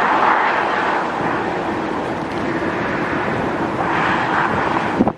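Vehicle noise mixed with wind: a steady low drone under a rushing hiss. The hiss swells at the start and again about four seconds in, then cuts off suddenly at the end.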